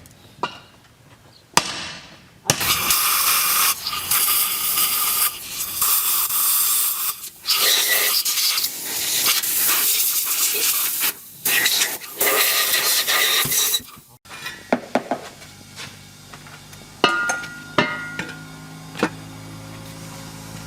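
Loud hissing spray in several bursts lasting about ten seconds, followed by scattered light metallic clinks and taps.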